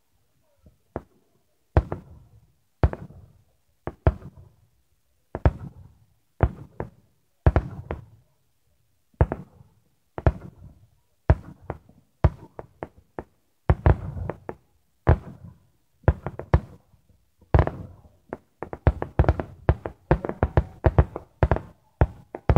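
Aerial firework shells bursting: a string of sharp booms, each trailing off. They come about once a second at first, then faster and overlapping near the end in a quick volley.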